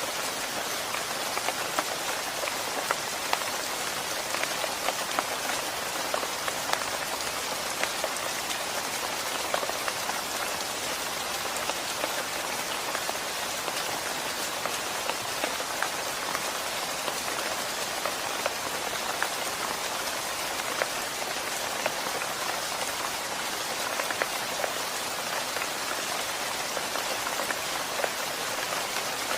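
Steady rain falling on a surface, a dense even hiss with many separate drops ticking through it.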